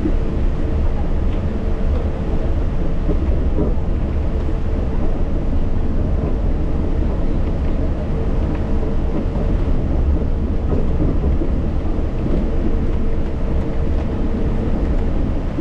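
Yurikamome rubber-tyred automated guideway train running along its guideway: a steady low rumble with a faint steady whine underneath.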